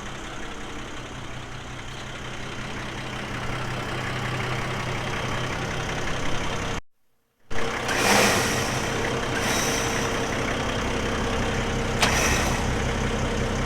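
Tow truck engine idling steadily. It cuts off briefly near the middle, then comes back with three short noisy bursts over the hum.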